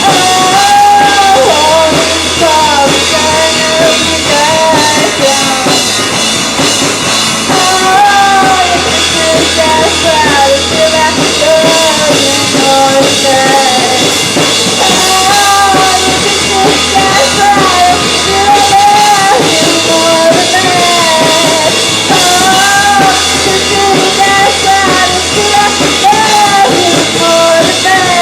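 Live rock band playing a loud, driving punk-rock song with drum kit, bass and guitar, and a melody line moving throughout.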